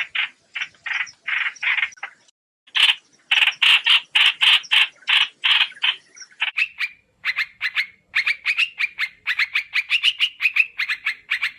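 Trao trảo bird giving rapid series of harsh, chattering calls, about five or six notes a second, with a short break about two seconds in. From about six seconds in the notes turn shorter and sharper.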